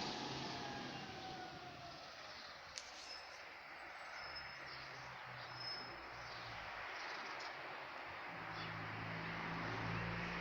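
Outdoor ambience: a steady hiss with a few faint high chirps and a click about three seconds in; a low steady hum comes in near the end.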